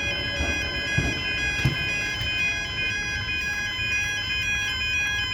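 Railway level crossing warning alarm sounding, a repeating two-note electronic tone alternating about twice a second over a low background rumble.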